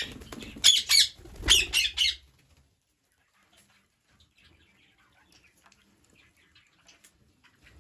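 Green parrots giving a quick run of loud, harsh squawks that stop about two seconds in, followed by only faint scattered chirps.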